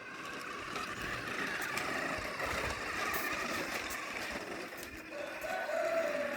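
Remote-control model tractor running: a steady mechanical whir, with a pitched whine that rises and then falls about five seconds in.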